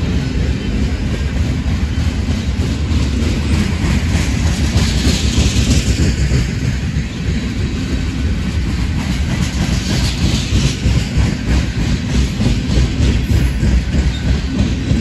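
Freight train cars rolling past, a steady heavy rumble with rapid clicking of wheels over the rail joints.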